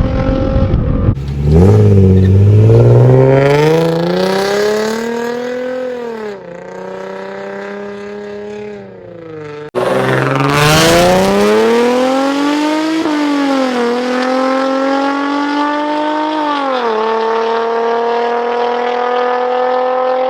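Infiniti G35's V6 through a Tomei Expreme Ti exhaust, pulling hard twice: the engine pitch climbs steeply, then drops and sinks as it eases off. After an abrupt change about halfway in, it climbs again, with short dips in pitch where it shifts up, and settles into a steady drone near the end.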